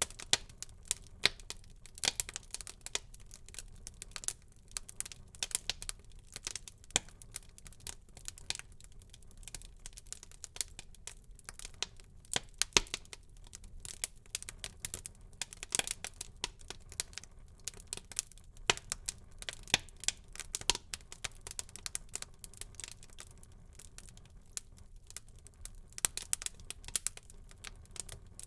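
Wood fire burning in a fireplace, crackling and popping with many irregular sharp snaps over a faint low rumble of the flames.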